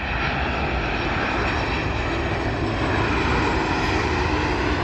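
Boeing 737-700's CFM56-7B turbofan engines on landing approach: steady jet noise with a faint whine, growing slightly louder as the airliner comes closer.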